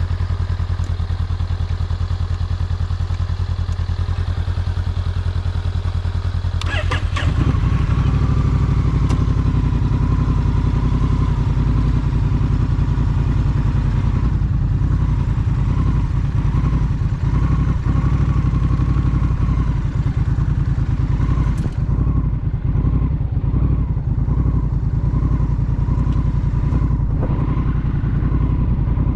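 Honda Rebel motorcycle's parallel-twin engine running steadily while riding, with a brief clatter about seven seconds in, after which the engine runs louder.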